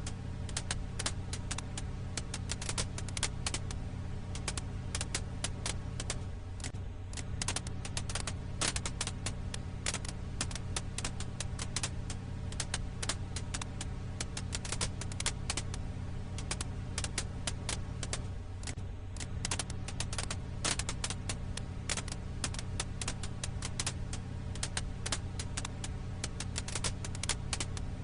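Fire crackle ambience: dense, irregular crackles and pops of burning firewood over a steady low hum.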